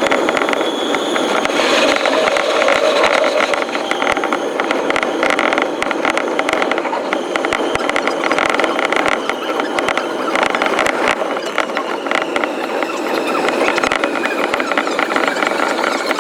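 Electric commuter train's running noise, a dense steady rattle of wheels on rail with rapid clicking, sped up with the picture to five times normal speed.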